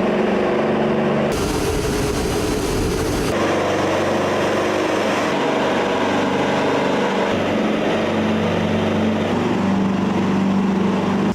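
Steady engine drone with a low hum, its tone changing abruptly about a second in, again at about three seconds and at about five seconds.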